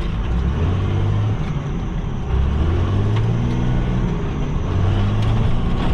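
Truck engine labouring in four-wheel-drive low while crawling over a rough, rocky trail, its note rising and falling as the throttle comes on and off, over a steady rumble of the vehicle working across the terrain.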